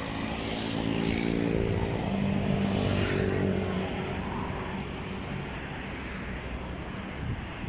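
A motor vehicle's engine passing close by: a steady hum that grows louder over the first few seconds, then fades away.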